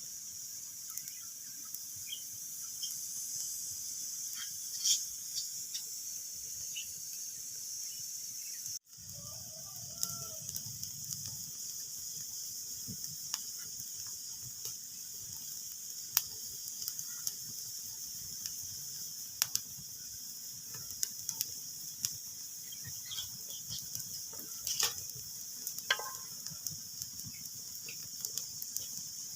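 Wood fire crackling in a fireplace: a steady hiss with scattered sharp pops and snaps. The sound cuts out for an instant about nine seconds in.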